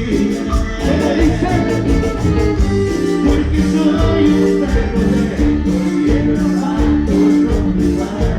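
Live band playing Latin dance music with a steady beat and a sustained melody line.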